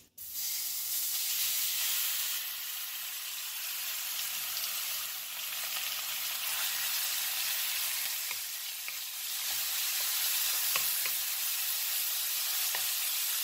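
Marinated chicken pieces sizzling in hot oil in a preheated granite-stone wok, the sizzle starting suddenly as the chicken goes in and then holding steady. From about five seconds in, light taps of a wooden spatula stirring the pieces.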